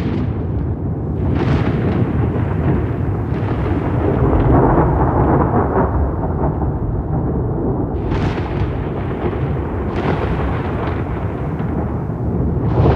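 Rolling thunder: a continuous deep rumble broken by several sharp cracks, the clearest about eight and ten seconds in and near the end.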